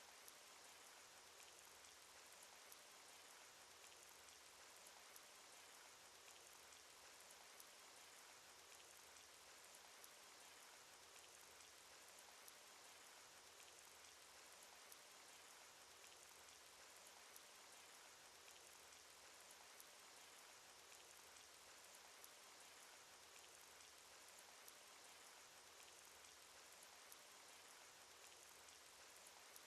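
Faint steady rain sound effect: an even hiss of falling rain with scattered small drop ticks.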